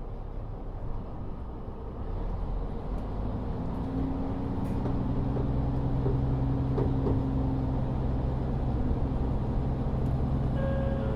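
Cabin sound of a KIHA40 diesel railcar with its N-DMF13HZB diesel engine, rising from a low idle to a steady, louder pulling drone from about two seconds in as the railcar sets off.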